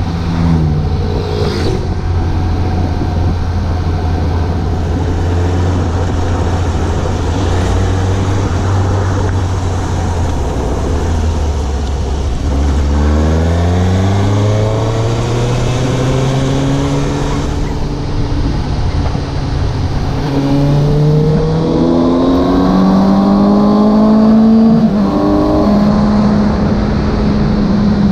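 Suzuki GSX750 motorcycle's inline-four engine heard from the rider's position, running at steady revs for about twelve seconds, then revving up as the bike accelerates, with a gear change near the end.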